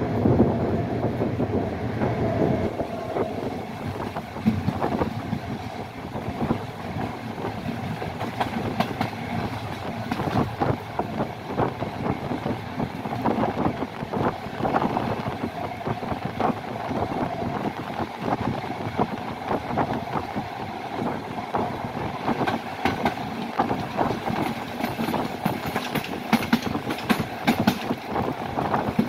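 Passenger train running on the rails, heard from a window of the coach: a steady rumble of wheels on track, with a run of sharp clicks and clacks over the last few seconds as the wheels cross points.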